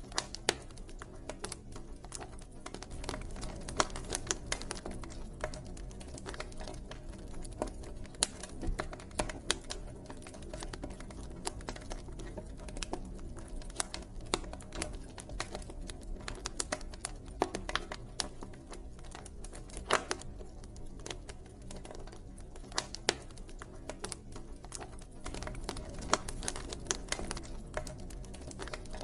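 Campfire burning: wood crackling with irregular sharp pops, several a second and now and then a louder snap, over a steady low rumble of the flames.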